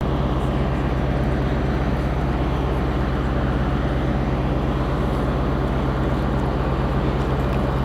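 Diesel train engine idling, a steady low drone and rumble that holds level throughout.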